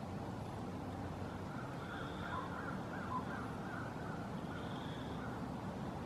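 A bird calling several times in a quick run through the middle, over a steady low rumble.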